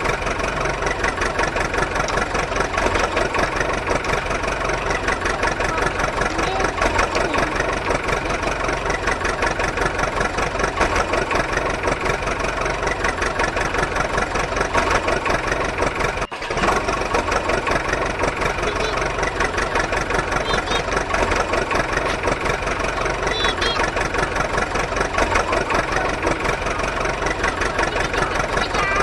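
Mini tractor's engine running steadily with a rapid, even beat. The sound drops out for a moment about sixteen seconds in.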